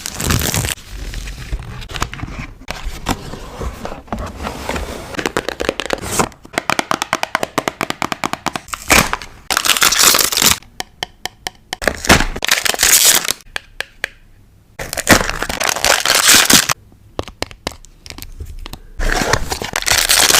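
Close-up paper-crafting sounds of stickers and paper being handled for a journal collage: peeling, tearing and crinkling, with many sharp small clicks. About a third of the way in there is a run of quick clicks, followed by several louder bursts of rustling and tearing.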